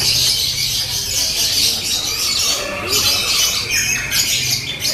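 Many lovebirds calling at once in a dense, shrill, unbroken chatter, over a steady low hum.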